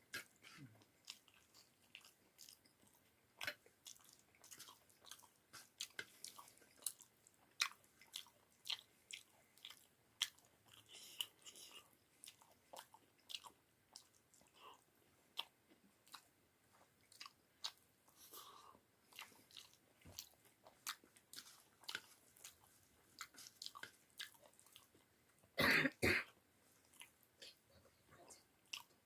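Close-miked chewing and mouth sounds of a person eating rice with dal and potato pakoras: a run of small wet clicks and smacks. One brief, louder noise near the end.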